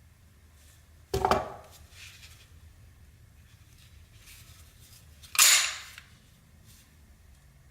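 ICS XAE gas blowback airsoft pistol making two sharp mechanical clacks, about a second in and about four seconds later.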